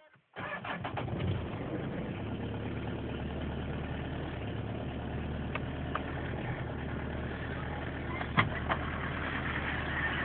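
Hyundai H1's 2.5 turbo-diesel four-cylinder engine at a cold start in −19 °C frost. It cuts in about half a second in, fires up and settles into a steady idle, with a couple of sharp clicks near the end.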